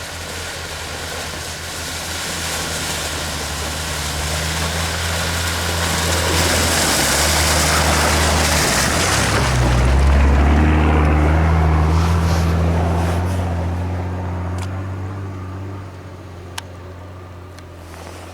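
Off-road 4x4 engine working hard under load, building up to a loud peak partway through as its pitch shifts, then fading away. A loud hissing rush sits over it about six to nine seconds in.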